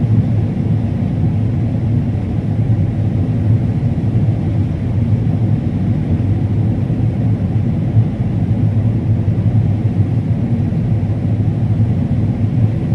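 Combine harvester running steadily while harvesting corn, a constant low drone of engine and machinery.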